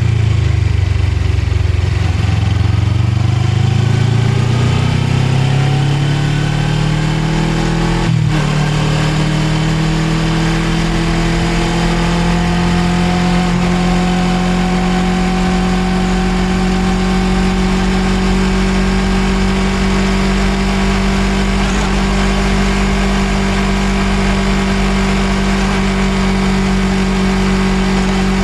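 Suzuki GSX250R's parallel-twin engine heard from on the bike. Its pitch dips briefly, then climbs as it accelerates, up to a sharp click of a gear change about eight seconds in. After that it runs at a steady, slowly rising pitch while cruising, over a hiss of wind.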